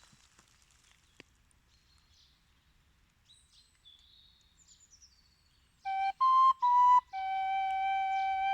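Faint, scattered bird chirps, then about six seconds in a flute comes in. It plays a few short notes and then holds one long steady note.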